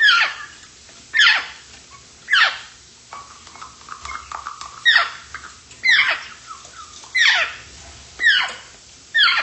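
A grey parrot calls over and over, about eight falling, squeaky whistle-like calls in all, roughly one a second, with a gap of about two seconds in the middle.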